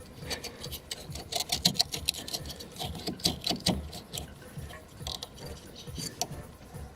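Hands working at a car's DPF differential pressure sensor and its electrical connector: a run of irregular clicks, taps and scrapes of plastic and metal parts, busiest in the first few seconds.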